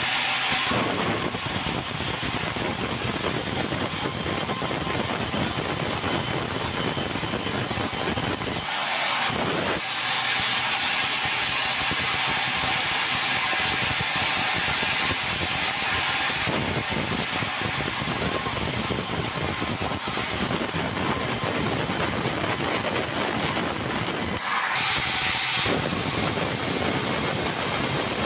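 Sawmill band saw cutting meranti wood, a steady loud sawing noise. About nine seconds in, and again near twenty-five seconds, the deeper cutting sound drops away for about a second while the blade's hiss carries on.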